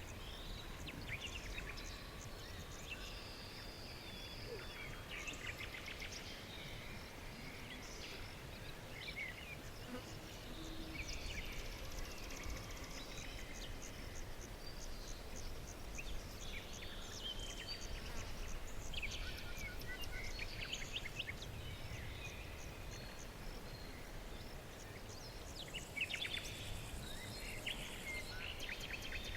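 Several small songbirds chirping and trilling, with overlapping short calls and quick rapid trills, over a steady low background rumble.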